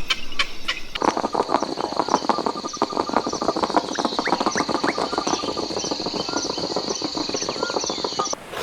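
Dense chorus of small animal calls: rapid clicking, short rising chirps and a steady high trill, starting abruptly about a second in after a few regular clicking calls.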